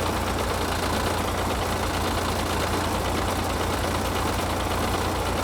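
An old, worn-out tractor's engine running steadily at a constant speed.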